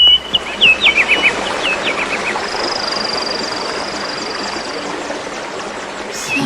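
Birdsong: a quick run of short chirps sweeping downward, then a long, even, high-pitched trill starting about two and a half seconds in, over a steady background hiss.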